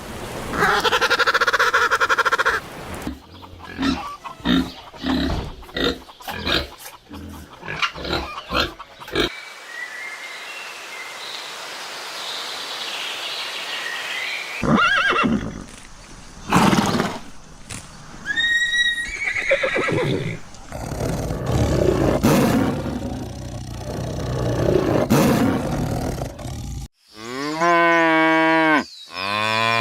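A series of different animal calls and noises that change every few seconds, with a run of sharp knocks early on and a long wavering call near the end.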